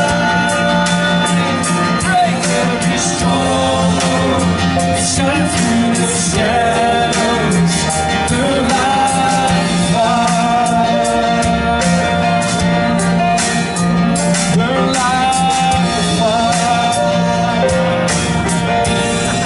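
Christian worship song with a voice singing over a band: guitar, a steady bass tone and a regular drum beat.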